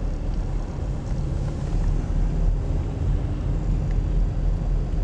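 Diesel car running, a steady low rumble of engine and road noise.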